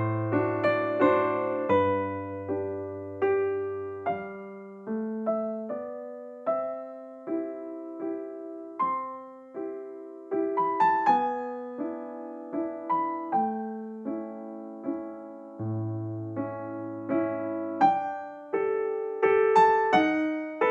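Background music: a gentle, slow piano melody of single notes, each struck and fading, with occasional low bass notes.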